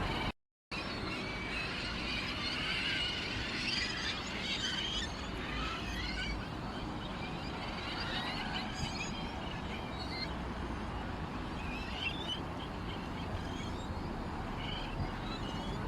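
Many small birds chirping together in a busy, overlapping chorus of short high calls, over a steady low background. The sound cuts out completely for a split second just after the start.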